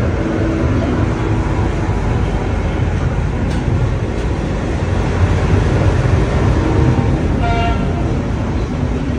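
Steady low rumble of a passenger train's coaches rolling slowly out of the station, heard from aboard, with a short high-pitched tone about seven and a half seconds in.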